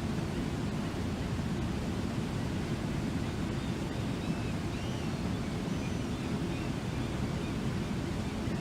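Waterfall rushing steadily, with a few faint high chirps around the middle.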